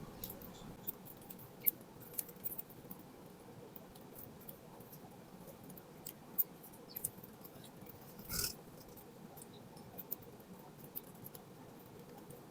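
Birds pecking at seed at a feeding spot: scattered light, sharp taps and clicks. About eight seconds in there is one louder, brief scuffling sound.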